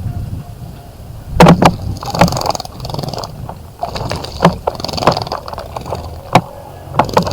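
A bird splashing in a bird bath: irregular bursts of splashing, each about half a second long, mixed with sharp knocks.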